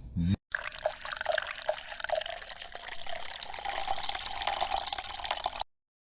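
Steady running-water-like splashing noise with small scattered drips or clicks, cutting off suddenly near the end.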